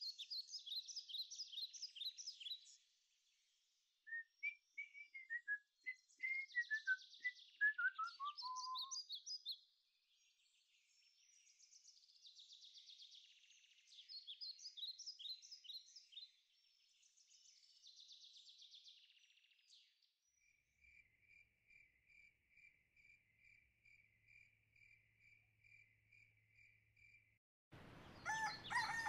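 Woodland birdsong: several songbirds singing in turn, one with a run of clear notes falling in pitch. Later a single chirp repeats steadily about twice a second, and near the end a louder outdoor ambience with more birdsong starts abruptly.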